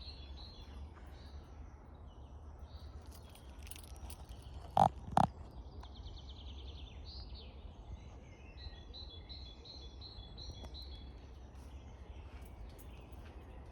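Woodland birds singing: strings of short repeated high notes and a fast trill. Near the middle come two loud, sharp knocks about half a second apart, louder than the birdsong.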